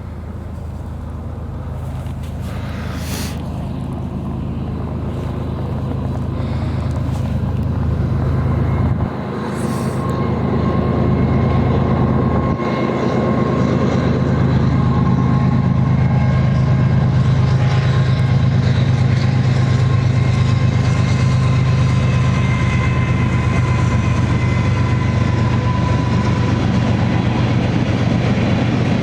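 A train passing close by: a low, steady locomotive engine rumble with rail and wheel noise, growing louder over the first dozen seconds as it approaches, then holding loud and steady.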